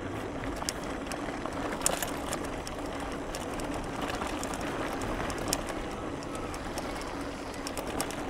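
Mountain bike rolling over a rough dirt track: steady tyre and wind noise with scattered sharp clicks and rattles, the strongest about two seconds in.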